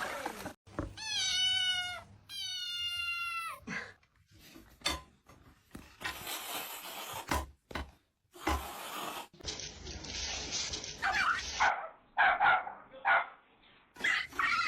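A domestic cat meowing twice in the first few seconds, two long drawn-out meows of over a second each. Then come scattered knocks, rustling and short bursts of sound.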